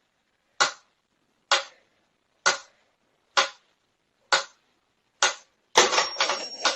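A series of short, sharp taps, evenly spaced a little under a second apart, then a quick flurry of clicks with a thin high whine near the end.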